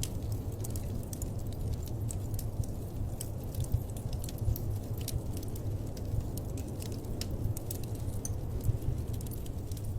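Wood fire crackling steadily, irregular sharp pops and snaps over a low, even rumble of the flames.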